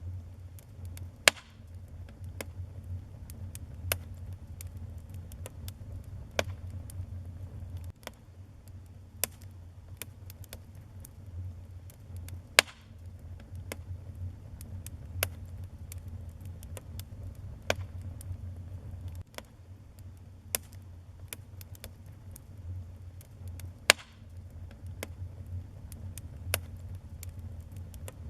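Wood fire crackling in a fireplace: scattered sharp pops and snaps at irregular intervals over a low, steady rumble of the flames, with three louder pops, about a second in, near the middle and a few seconds before the end.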